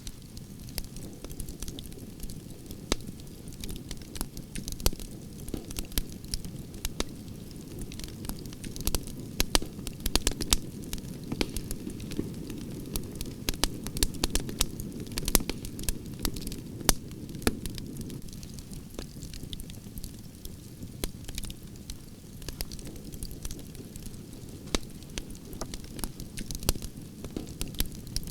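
Wood fire of burning branches crackling, with frequent sharp pops and snaps over a steady low rumble of flames; the pops come thickest through the middle of the stretch.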